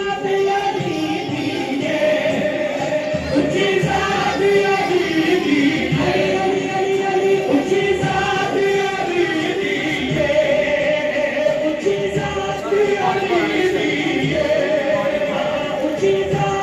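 Vocal music: voices singing long, held melodic lines without a break.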